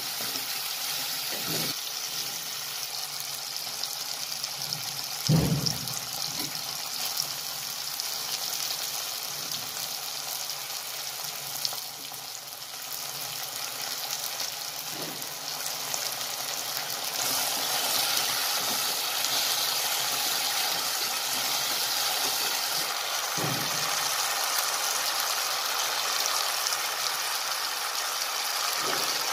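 Onions, capsicum and tomato sizzling in a hot frying pan while a wooden spatula stirs them, a steady hiss that grows louder a little past halfway. A few dull knocks sound through it, the loudest about five seconds in.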